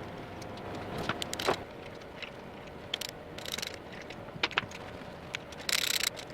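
Hand tools working on the Ducati 916 engine's side casings: scattered metallic clicks and taps, with short rattling bursts, the longest near the end.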